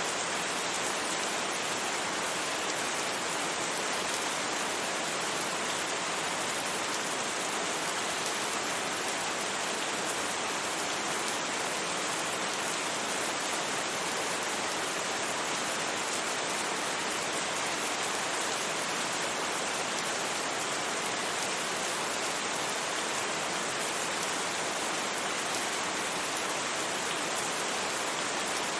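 Steady rain falling, an even, unchanging hiss with no thunder and no single drops standing out.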